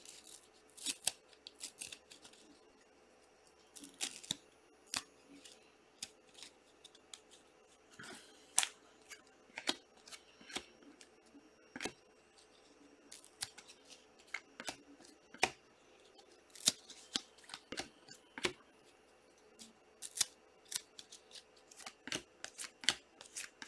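Irregular sharp clicks and snips from trading-card packs and cards being handled and opened, with quiet gaps between them.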